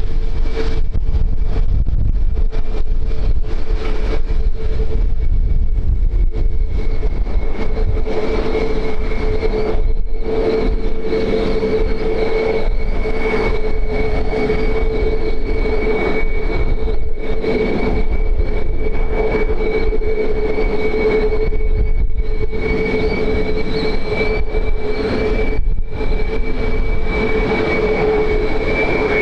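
Aircraft engines running steadily, a held whine over a loud rumble.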